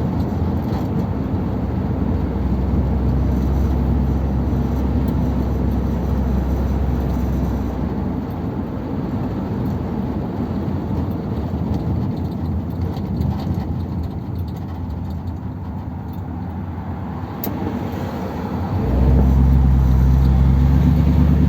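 Ford Thunderbird on the move: steady engine and road noise, with the engine growing louder and stronger about three seconds before the end.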